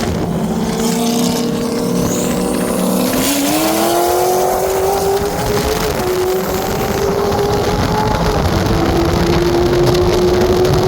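High-performance car engine at full throttle in a 60-to-160 mph roll race. Its pitch climbs about three seconds in, then holds with two small dips later on, typical of gear changes under hard acceleration.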